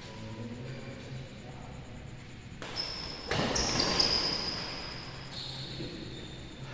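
Badminton play in a sports hall: two sharp racket hits on the shuttlecock a little under a second apart, midway through, followed by high squeaks of shoes on the court floor, over a low hall hum.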